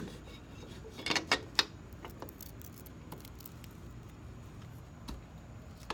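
Small hard clicks and light rattling as pieces of a cut nail file are worked into the lock mechanism of a sliding glass door. A quick cluster of three sharp clicks comes about a second in, followed by a few faint ticks.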